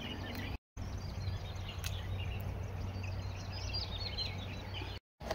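Small birds chirping again and again over a steady low outdoor background rumble. The sound cuts out to silence twice, briefly, about half a second in and near the end.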